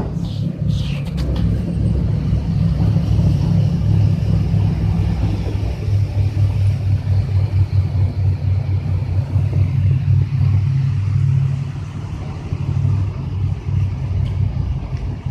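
Deep, steady rumble of a ship pushing through sea ice, with a few sharp cracks in the first second or so.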